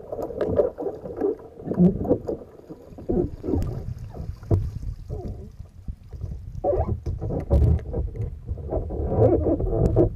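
Water sloshing and splashing against a kayak, in irregular surges, with scattered knocks.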